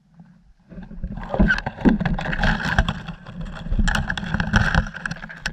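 Off-road motorcycle pulling away and riding along the trail: the engine runs under load with wind buffeting the microphone. From about a second in there are many sharp knocks and rattles.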